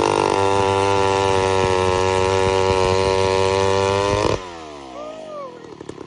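Two-stroke chainsaw held at a steady high rev. About four seconds in the throttle is released, and the revs fall away quickly to a quieter, rapid idle.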